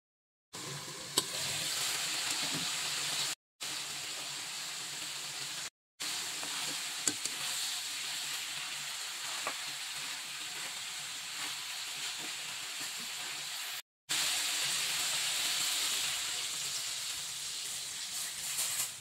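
Chicken pieces sizzling in hot oil in a metal pan, a steady frying hiss with a few sharp clicks against the pan. The sizzle quietens near the end.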